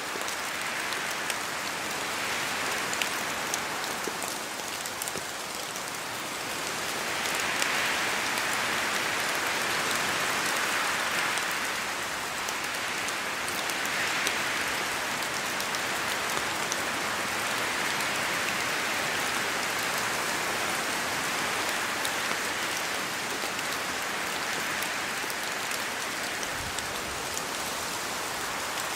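Steady rain falling in a spruce forest, with scattered close drops ticking from the trees. The hiss swells and eases several times, as wind moves through the trees, and is loudest from about 7 to 11 seconds in.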